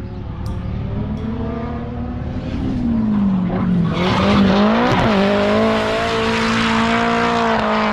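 Nissan Silvia drift car with a mid-mount turbo being driven hard. The engine revs sag, then climb, with a quick blip about five seconds in, and are then held high and steady. From about four seconds in, a loud tyre screech comes in as the car slides through a drift.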